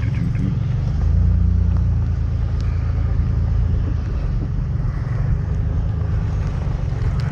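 Car driving slowly on a dirt road, heard from inside the cabin: a steady low rumble of engine and tyres that swells briefly about a second in.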